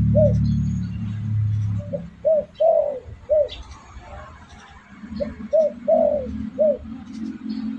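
Derkuku dove cooing: a single coo at the start, then two phrases of about four short, arched coos each, the second about three seconds after the first. A low steady hum runs underneath at the start and again from about five seconds in, with faint high chirps of small birds above.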